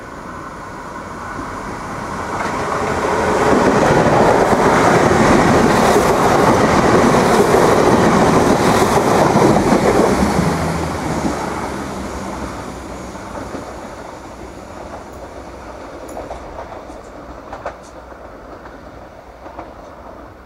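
Irish Rail 22000 Class intercity diesel multiple unit passing through a station without stopping. Its engine and wheel-on-rail noise build over the first few seconds, stay loud for about six seconds as it goes by, then fade. A few sharp clicks come near the end.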